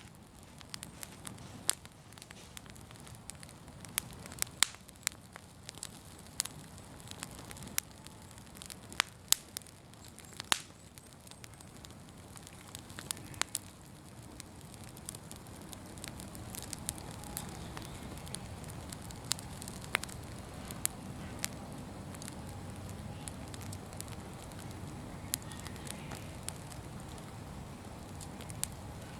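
Open fire crackling, with frequent sharp pops and snaps over a low steady rush of burning; the pops come thickest in the first half, and the low rush grows a little fuller in the second.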